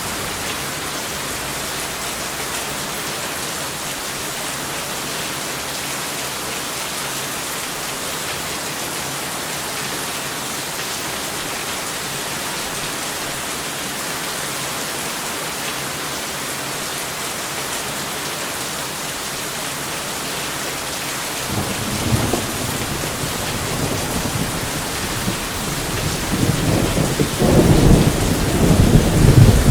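Steady heavy rain, joined about two-thirds of the way through by rumbling thunder that grows louder near the end.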